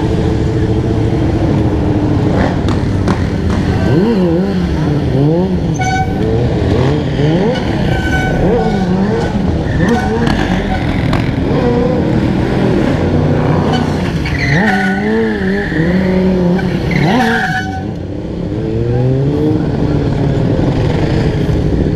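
Dirt bike engines revving up and down again and again, several at once at different pitches, with one winding up hard from about fourteen to seventeen seconds in.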